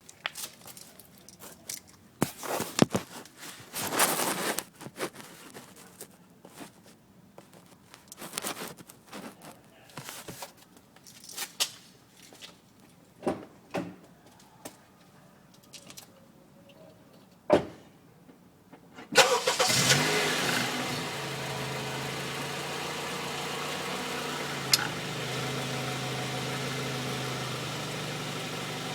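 Scattered clicks and knocks, then a car engine starts about two-thirds of the way in and settles into a steady idle, with an occasional sharp tick.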